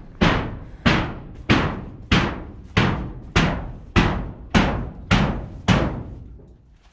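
Steady hammering: about ten evenly spaced blows, roughly three every two seconds, each ringing out briefly before the next. The blows stop near the end.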